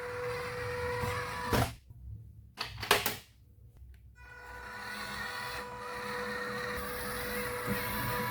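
Small electric toy-car motor whirring steadily at one pitch. It cuts out about one and a half seconds in with a sharp click, gives another click a second later, then whirs up again and runs on.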